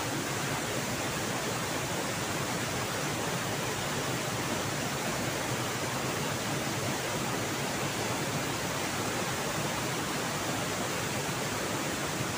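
Fast-flowing river water rushing steadily, a continuous even noise of a strong current and falling water.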